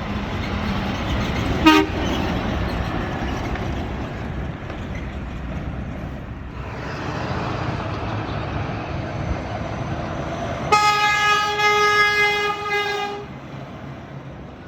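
Road traffic running, with a heavy vehicle passing, then one steady air-horn blast of about two and a half seconds on a single note.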